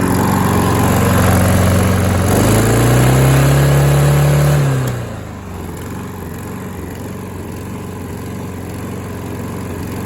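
Kohler XT675 lawn mower engine running, rising in pitch as it revs up about two seconds in, then falling away sharply about five seconds in to a much quieter steady sound.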